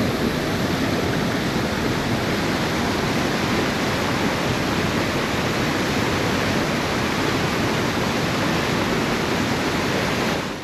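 Steady rush of the River Swale's flowing water, an even hiss with no breaks.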